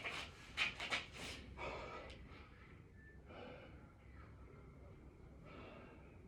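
A man breathing hard from the exertion of six-count burpees. A quick run of sharp, forceful breaths comes in the first second and a half, followed by slower, fainter breaths.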